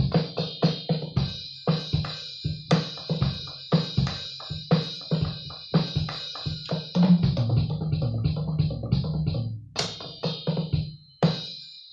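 A drum kit being played, with low drum hits under ringing cymbals in an uneven beat.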